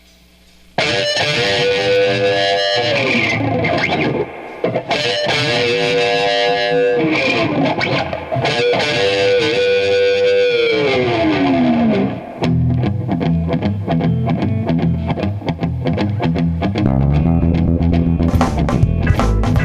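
Instrumental intro of a blues-rock song. A distorted electric guitar plays long sustained phrases with sliding, falling notes. After about twelve seconds a steady rhythmic riff with bass takes over, and it fills out with drums near the end.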